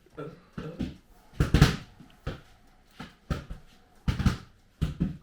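Irregular dull knocks and thumps of dishes and utensils being handled while food is served, about seven in all, loudest about one and a half seconds in.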